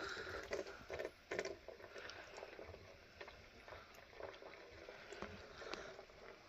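Faint gurgling and trickling of antifreeze poured through a funnel and running down a hose, with small irregular ticks and bubbling.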